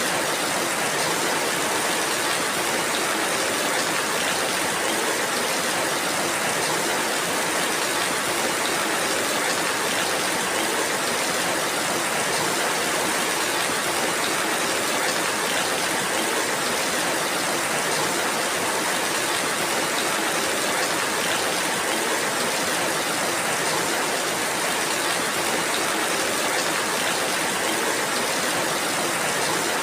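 Steady, heavy rainfall: an even, unbroken hiss with no distinct drops, thunder or other events.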